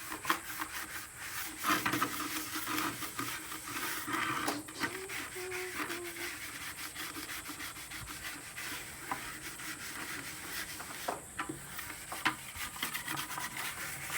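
Continuous scrubbing and rubbing at an animal's water bucket, working off the last stubborn spots of grime.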